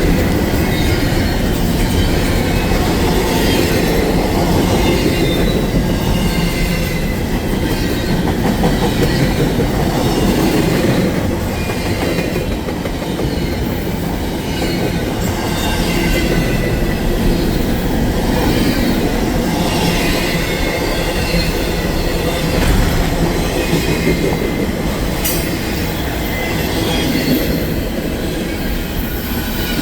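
Train cars rolling past at close range, a steady rumble of wheels on rail with repeated high-pitched squeals from the wheels.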